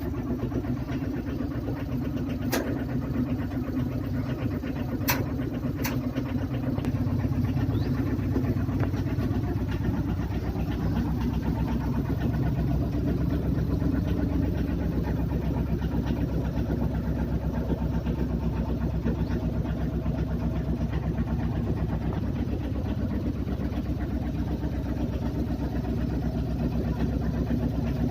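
Tata Ace mini-truck engine running steadily, with a few sharp clicks in the first six seconds.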